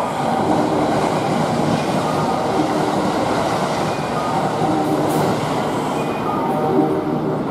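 Kintetsu 80000 series Hinotori limited express train running through a station at speed: a loud, steady rush of wheels on rails, with a whine that comes and goes every couple of seconds.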